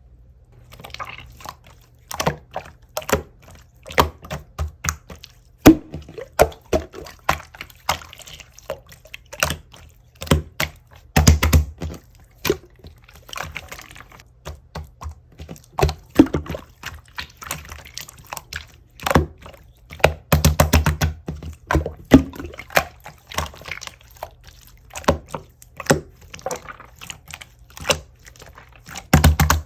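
Thick, tough clear slime being squished and pressed by hand: a dense, irregular run of sharp wet pops and clicks.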